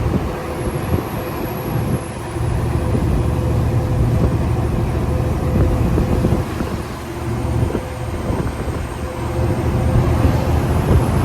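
Semi-truck running, with a steady low engine rumble and road noise.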